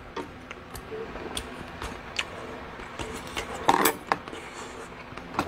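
A person chewing a mouthful of samgyetang chicken and rice, with scattered small clicks and mouth noises, a louder one a little under four seconds in.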